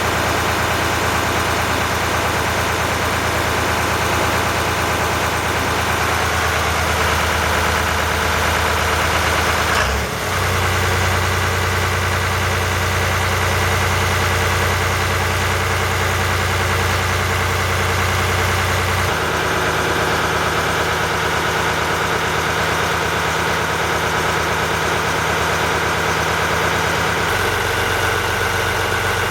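Yamaha MD580KUH inboard marine diesel engine running steadily. Its note changes a few times, with a brief dip about ten seconds in.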